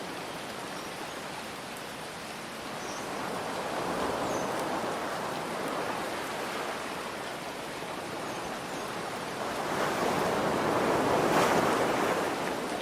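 Ocean waves washing ashore over a steady hiss of rain, swelling twice, about four seconds in and more loudly from about ten seconds in.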